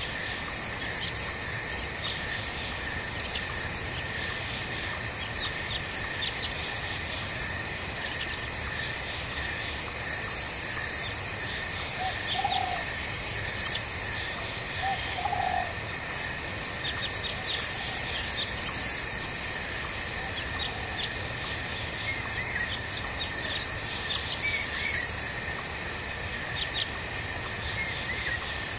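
Night forest ambience: a steady chorus of crickets and other insects, with a very high shrill insect trill that switches on and off every few seconds, over the even rush of a babbling stream. Two short low calls come about twelve and fifteen seconds in, and a few faint chirps near the end.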